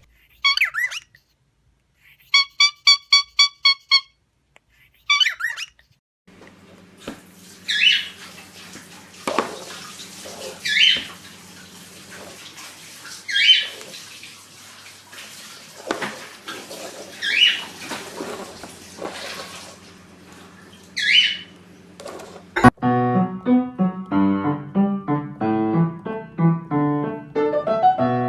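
A parrot calling over and over, short calls that fall in pitch, a few seconds apart, over room noise with a steady low hum. Piano music comes in near the end.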